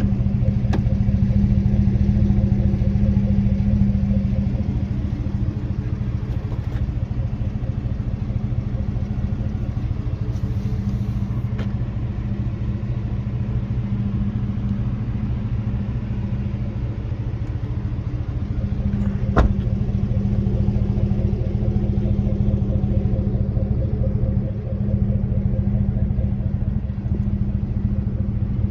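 A machine running steadily with a low, even hum, with a few sharp clicks, one about nineteen seconds in.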